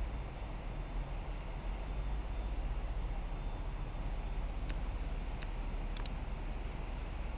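Steady low rumble of jet aircraft engines, with a few short high ticks in the second half.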